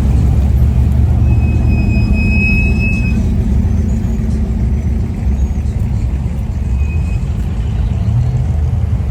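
Steady low rumble of a car engine running, with a brief thin high-pitched squeal about one and a half seconds in.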